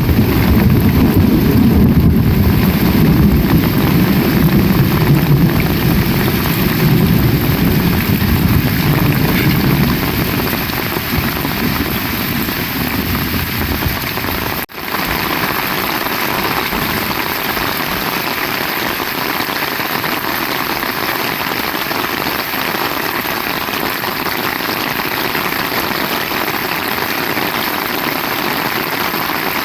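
Heavy rain pouring steadily in a thunderstorm, with a low roll of thunder dying away over the first third. The sound drops out for an instant about halfway through, then the rain carries on.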